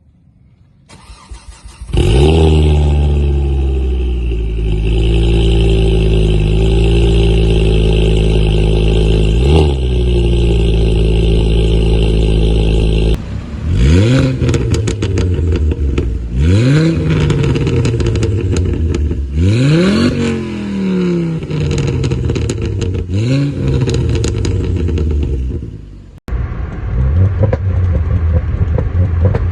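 Ford Focus ST 225's turbocharged five-cylinder, with a decatted Scorpion exhaust, cranks for about a second, catches with a flare and settles to a steady fast cold idle with one quick blip. After that come about five sharp revs, each rising and falling back. Near the end there is a sudden change to a steadier, lower rumble.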